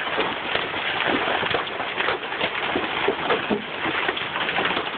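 Large hailstones pelting down and striking cars, a dense, irregular clatter of hard impacts over a steady hiss.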